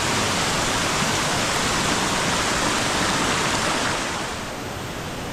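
Soco Falls, a double waterfall, rushing as a steady dense roar of falling water, which drops in level and loses some of its hiss about four seconds in.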